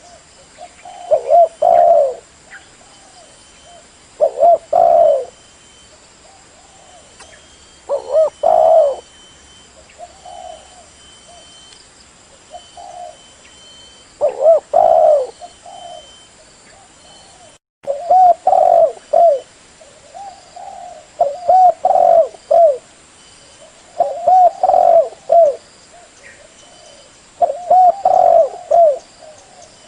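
Spotted dove cooing: phrases of several low coos repeated every one to three seconds, with a brief dropout a little past halfway.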